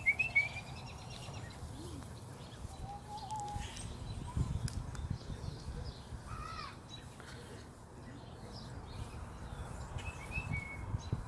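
A few short bird calls, scattered through the stretch, over a low rumbling background noise.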